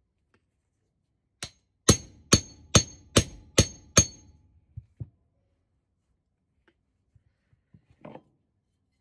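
Hammer striking metal: one light tap, then six hard ringing blows about two a second, as the steel suspension trumpet of a Mark 1 Mini is driven loose from its rubber cone. A couple of light knocks follow, and a soft clunk near the end.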